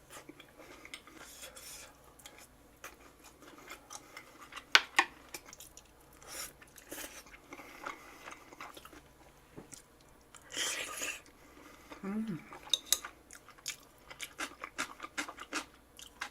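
A person eating close to the microphone: chewing and mouth sounds, with scattered clicks of utensils against dishes and one sharper knock about five seconds in.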